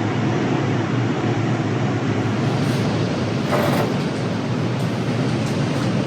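Steady rushing outdoor noise with no distinct events, heaviest in the low end.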